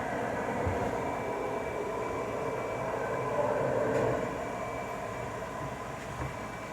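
GE washing machine running: a steady mechanical noise with a faint steady whine, a little louder about four seconds in, then easing.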